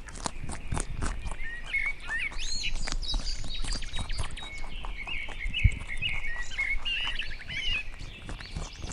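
Several small birds chirping and calling over one another in quick, overlapping short notes, with scattered light clicks and taps and one dull thump about two-thirds of the way through.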